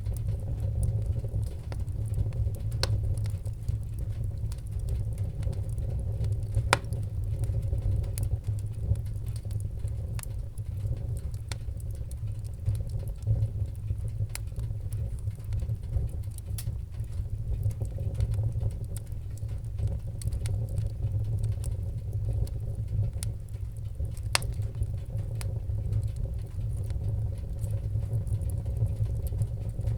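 Wood fire in a fireplace crackling, with scattered sharp pops over a steady low rumble; a few louder pops stand out, near the start, about seven seconds in and later on.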